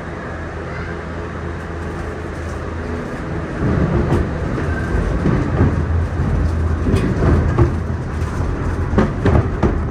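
Disney Skyliner gondola cabin moving through a station on its rail and drive wheels, heard from inside the cabin: a steady low hum that grows into a louder rumble about a third of the way in, with several sharp clunks and knocks near the end.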